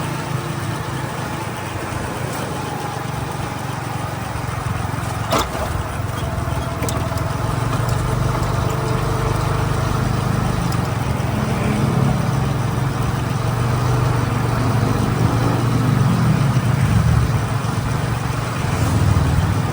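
Motorcycle engine running under way, its pitch rising and falling as it speeds up and slows, over steady road and wind noise. A sharp click about five seconds in.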